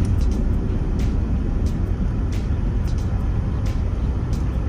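Airliner cabin during the takeoff roll: a loud, steady rumble of jet engines and the runway, with scattered clicks and rattles.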